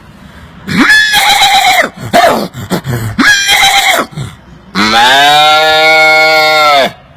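A man imitating livestock calls with his voice: two short wavering calls with softer grunting sounds between, then one long, steady call from about five seconds in.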